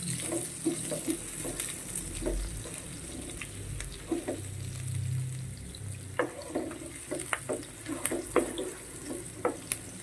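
Garlic and onion sizzling in oil in a pan, with a wooden spatula stirring them and giving short scrapes and taps against the pan, more often in the second half.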